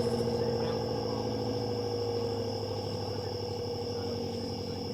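ACA P-10 rotating outdoor siren winding down. Its tone slides slowly lower in pitch and fades, pulsing with the rotation. A steady high insect-like whine runs under it.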